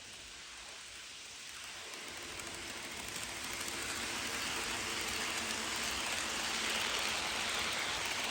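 HO scale model passenger train rolling along the track, its wheels and motor making a steady hiss that grows steadily louder as the train approaches.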